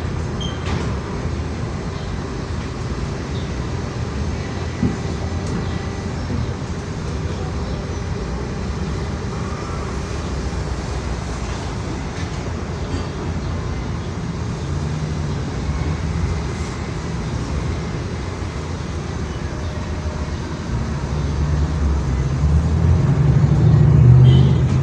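Steady low rumble of a moving vehicle, swelling louder near the end.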